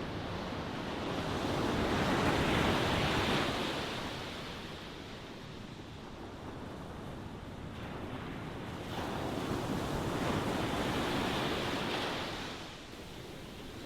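Ocean waves breaking and washing in: two surges of surf, one peaking about two to three seconds in and another from about nine to thirteen seconds, each swelling and then falling away.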